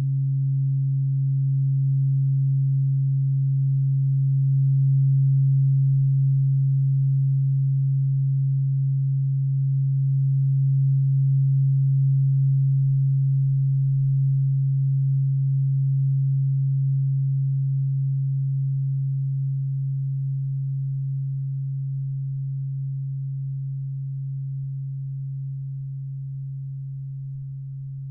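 A low-pitched tuning fork ringing one steady, almost pure tone that swells over the first few seconds and then slowly fades.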